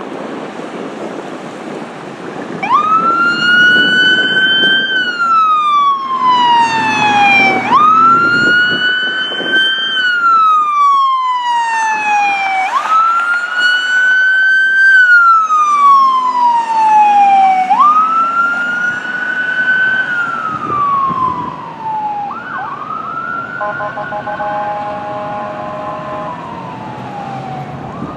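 A fire apparatus siren wailing as the truck passes: four loud cycles, each a quick rise and a slow fall about every five seconds, over road and engine noise. Near the end there is a brief steady chord of tones, and the wail winds down and fades.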